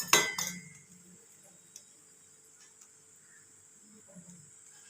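A single clink of a kitchen utensil at the start, ringing briefly, then quiet with a few faint small ticks.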